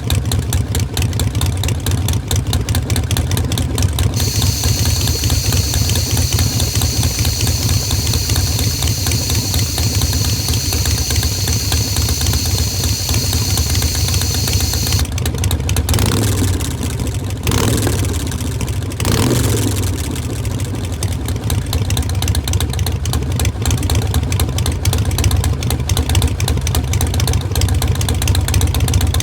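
Harley-Davidson Iron 1200's air-cooled 1200 cc V-twin idling through a Vance & Hines Shortshots exhaust with the stock air cleaner, with two short throttle blips a little past halfway.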